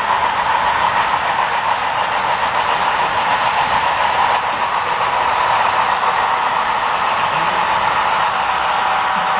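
HO-scale model freight train running along the layout, a steady rushing noise with no breaks.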